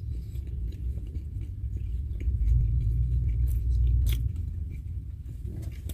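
Someone chewing food close to the microphone inside a car, over a low rumble that swells for a couple of seconds around the middle.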